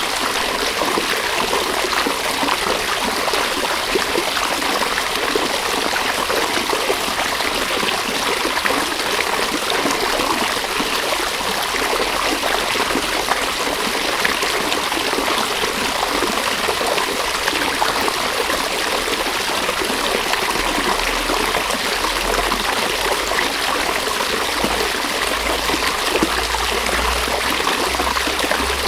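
A river flowing: a steady rush of water with a trickling, splashing texture, unchanging throughout.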